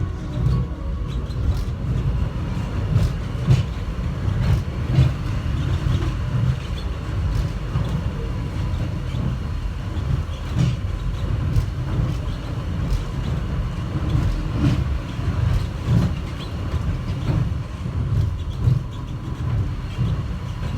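Airport subway people-mover train running between stops, heard from inside the car: a steady low rumble with frequent clicks and rattles.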